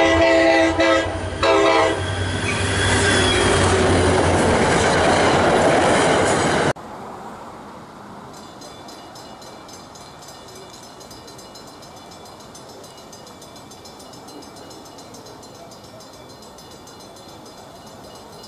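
Locomotive horn sounding in a few short blasts, followed by the loud rush of a passing train. The sound cuts off suddenly about a third of the way through, leaving a much quieter, steady background with a faint high pulsing.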